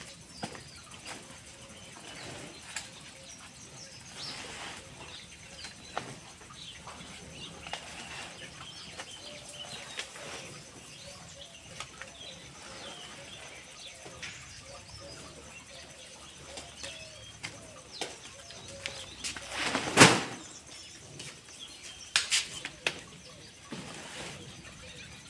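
Birds chirping in the background, with scattered knocks and one loud thump about twenty seconds in.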